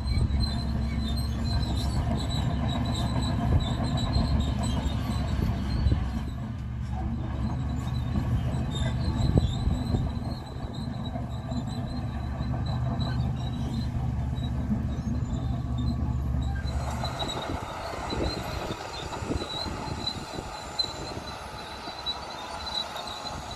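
Bulldozer's diesel engine running hard with its steel crawler tracks, over a thin steady high whine. About seventeen seconds in, the deep engine rumble drops away, leaving a noisier clatter of tracks and knocks.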